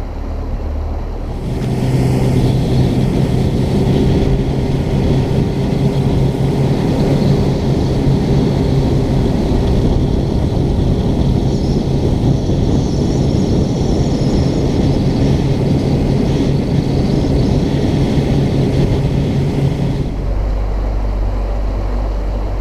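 New Mercury four-stroke outboard on a bass boat, being broken in: throttled up about a second and a half in, held at a steady higher speed, then eased back near the end. Wind and water rush go with it.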